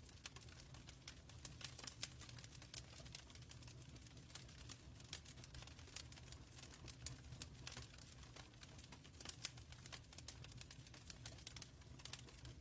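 Wood fire crackling in a fireplace: faint, irregular sharp pops and snaps over a low steady rumble of the flames.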